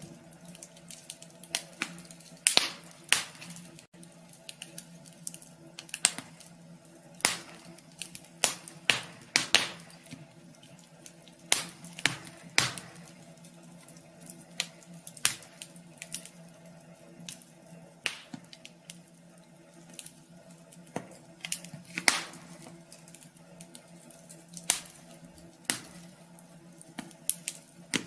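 Wood fire crackling in a wood stove: irregular sharp pops and snaps, some single and some in quick clusters, over a faint steady low hum.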